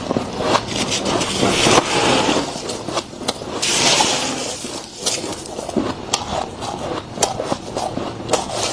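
Thick, deep freezer frost crunching close up: irregular crisp crackles and snaps, with a longer gritty crunch about two to four seconds in.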